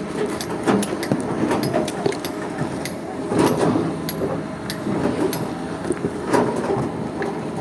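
Hydraulic excavator at work in sand: a steady diesel engine with repeated knocks and clatter, typical of the bucket scraping and striking sand and stones.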